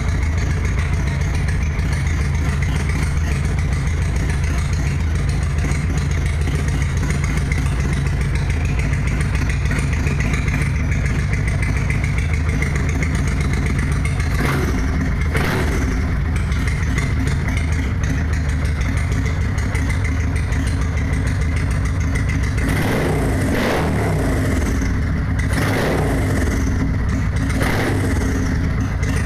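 Kawasaki VN800 V-twin motorcycle engine running steadily. A few brief rising-and-falling sweeps come in the middle and again near the end.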